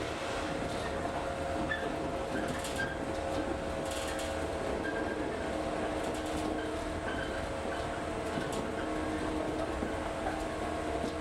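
Inside a moving electric local train: steady running noise with a constant hum, and a few brief clicks and hisses from the wheels on the track.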